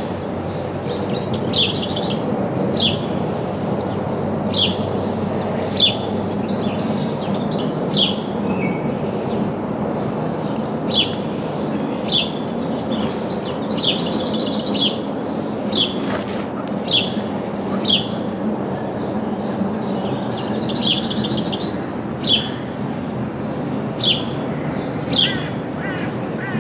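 A small bird calling repeatedly with short, high chirps that drop in pitch, one every second or two, over a steady low background noise.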